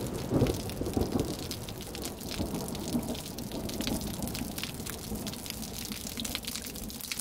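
Rain falling during a thunderstorm, with scattered raindrops ticking sharply on a hard surface. A low rumble of thunder is dying away during the first second or so.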